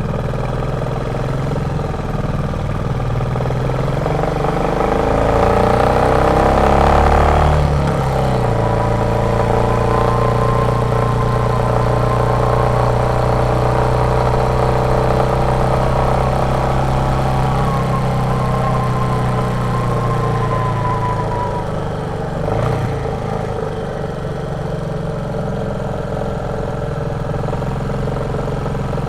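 Royal Enfield Meteor 350's single-cylinder thumper engine running under way: the revs climb for the first seven seconds or so, drop sharply about eight seconds in, hold steady at cruise, then fall again a little past twenty seconds, with a short knock soon after.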